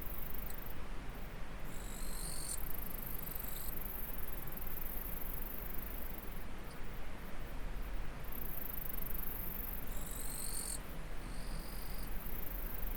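Steady rushing of a stream with a constant high-pitched insect drone over it. A short high call is heard twice, about eight seconds apart.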